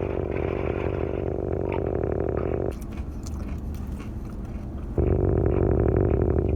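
Close-up chewing and biting of food. About three seconds in it drops away for a couple of seconds, with a few light clicks and rustles, then resumes louder.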